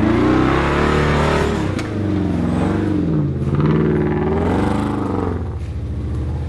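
Off-road Jeep's engine revving up and down several times, its pitch rising and falling, then dropping back to a steady low run about five seconds in.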